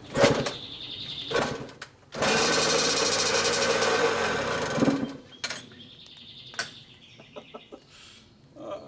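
Yamaha YZ85 two-stroke single-cylinder engine, freshly rebuilt, being kick-started with the choke held on: two kicks, then the engine catches about two seconds in and runs loudly with a rapid, rattly firing for about three seconds before cutting out suddenly. Quieter clicks and rattles follow.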